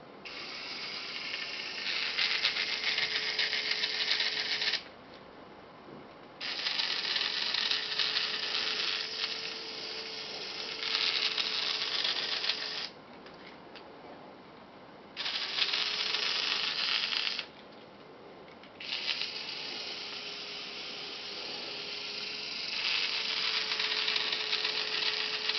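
Makita DF032D cordless drill-driver run without load in four bursts of a few seconds each: a steady motor whine with a loud, rattling, ratchet-like gear noise that grows louder partway through several of the runs. This is the strange noise the owner hears when the drill is turned upside down, which a service centre found no fault behind.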